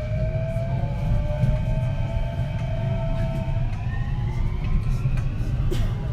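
Kintetsu 3220 series train running, heard from inside the car: the Hitachi IGBT VVVF inverter and traction motors whine in several tones that rise in pitch over the first few seconds and then level off as the train picks up speed, over a steady rumble of wheels on rail.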